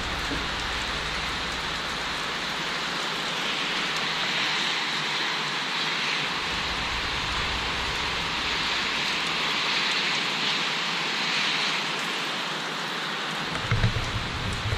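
Steady rain falling, an even hiss throughout. A few low thumps sound near the end.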